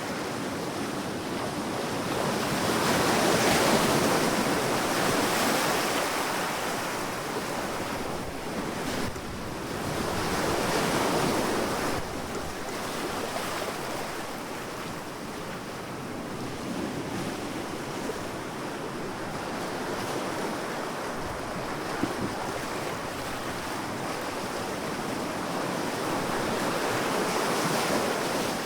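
Sea waves breaking on a beach, the surf swelling and falling back in slow surges, with three louder breakers: about 3 seconds in, about 10 seconds in and near the end.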